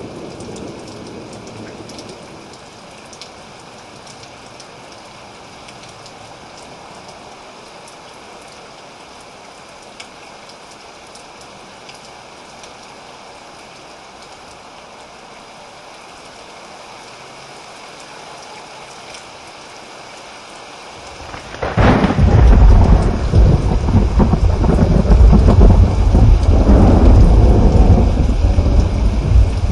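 Steady rain falling, then about 22 seconds in a loud, deep rumble of thunder breaks in and rolls on for several seconds before starting to fade.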